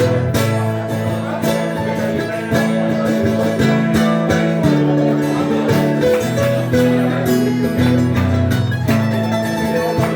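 Acoustic instrumental break between sung verses: guitar and other plucked strings playing the tune, with no singing.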